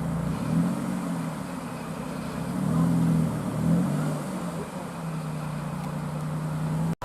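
A sports car's engine running at low revs, its pitch rising and falling with light throttle, then holding a steady note for the last couple of seconds.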